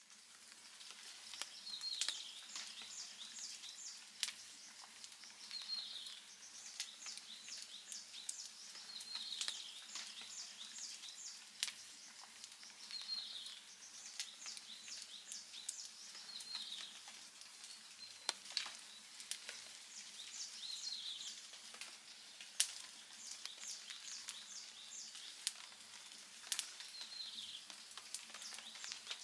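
Outdoor wood fire crackling, with sharp pops scattered irregularly. A bird repeats a short, high song phrase every few seconds.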